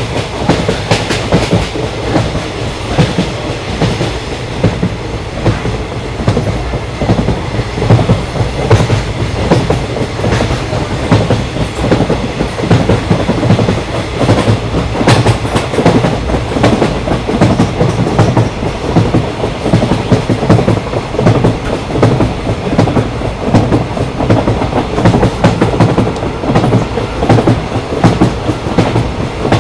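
Train running along the rails: a steady low rumble with the irregular clickety-clack of wheels over rail joints.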